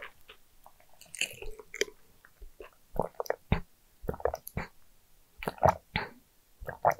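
A person chewing fried sweet potato slices close to the microphone: irregular moist, squishy chews and smacks with scattered sharp clicks.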